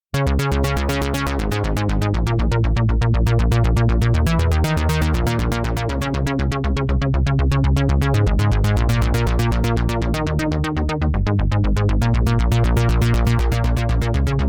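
Cherry Audio P10 software polysynth playing an arpeggiator preset: a fast, even run of repeated notes over a heavy bass, starting abruptly.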